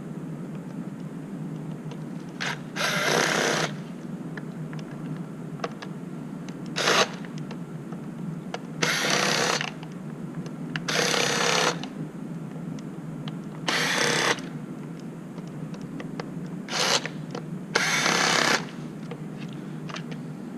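Cordless power driver spinning out the airbox screws in short bursts of under a second each, about eight times, with pauses between.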